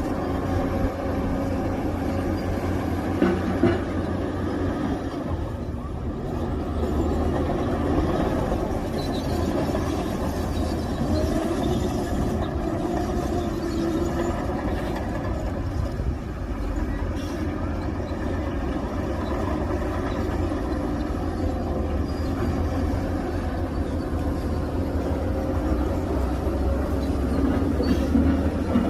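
Diesel engines of heavy earthmoving machinery running under load with a steady low drone, with a couple of brief knocks.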